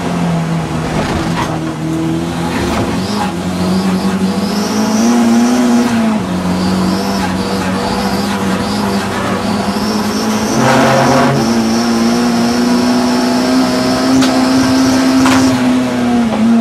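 Audi TT race car's engine running hard, its pitch rising and falling with throttle and gear changes, with a high steady squeal over it and a short harsh burst of noise about two-thirds of the way through.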